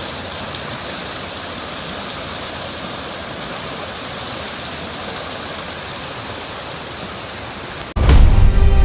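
A steady rushing of water, even and unbroken. About eight seconds in, loud music cuts in abruptly.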